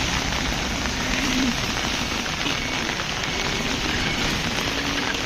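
Heavy rain falling on a street, a steady even hiss of drops striking the road.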